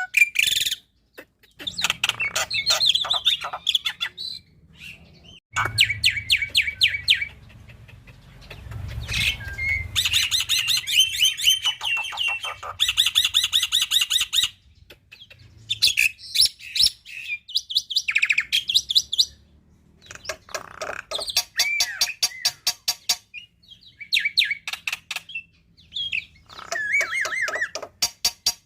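Black-winged myna (jalak putih) singing in loud bouts of rapid repeated notes, rattling trills and whistles, each lasting one to a few seconds with short pauses between.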